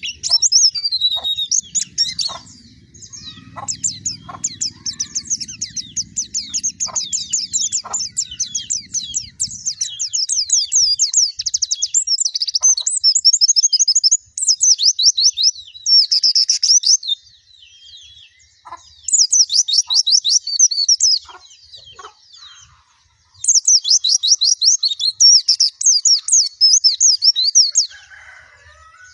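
White-eye (pleci) singing: long, fast, high twittering song phrases in several bursts, broken by short pauses, with a faint low hum under the first third.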